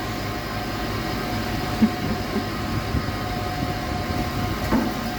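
Steady machine hum with a thin constant tone running under it. Two short light knocks come through, one about two seconds in and one near the end.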